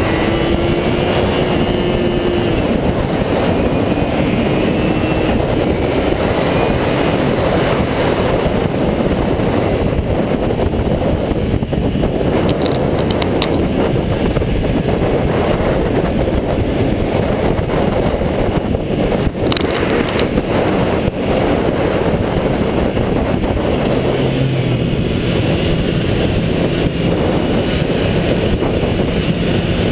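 400cc motorcycle being ridden hard, its engine running at high revs under a heavy rush of wind over the onboard microphone. The engine note sits lower from about three-quarters of the way through.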